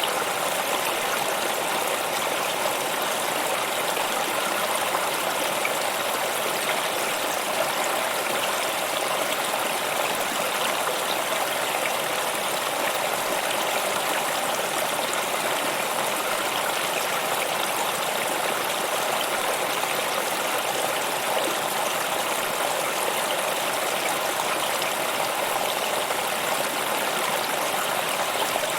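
Stream water flowing steadily, an even rushing and trickling with no breaks or changes.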